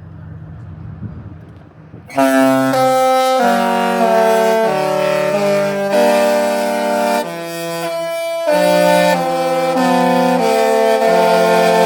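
Disney Destiny cruise ship's musical horns playing a tune in chords of several horn tones, changing note every half second to a second. The tune starts loudly about two seconds in, after a quieter low sound.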